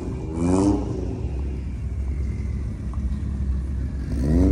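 Low, steady rumble of car engines idling, with brief bits of a voice near the start and near the end.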